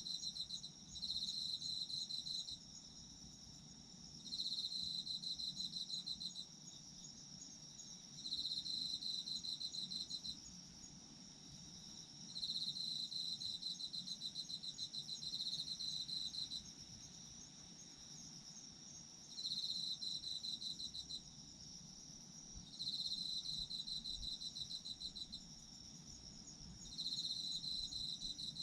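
Autumn crickets singing at night. One insect gives a pulsed trill in bursts of two to four seconds, repeated about eight times with short pauses, over a steady, higher-pitched chorus of other insects.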